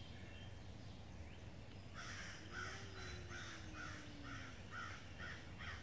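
Faint harsh bird calls repeated in a quick, even series, about three a second, starting about two seconds in, over a steady low background hum.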